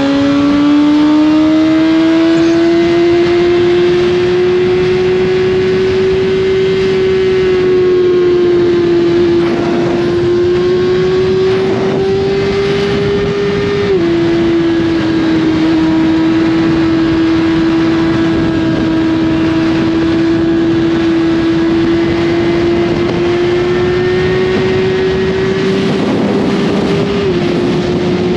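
2021 Suzuki GSX-R1000's inline-four engine with an Austin Racing slip-on exhaust, running hard at a steady high speed. Its pitch creeps up, then drops suddenly twice, about halfway and near the end, as it shifts up a gear.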